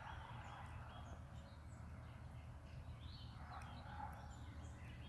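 Quiet background: a steady low hum with a few faint, brief bird chirps scattered through it.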